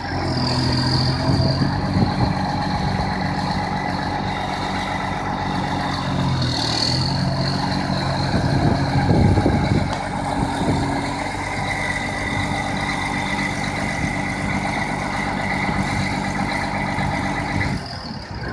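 New Holland 9482 four-wheel-drive tractor's diesel engine running steadily, its pitch dipping briefly twice about a third of the way in. A thin high whine sits over it through the second half.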